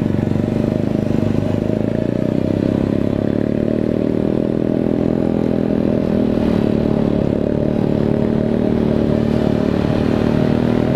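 Honda Supra single-cylinder four-stroke motorcycle engine running steadily at an even speed, with no revving.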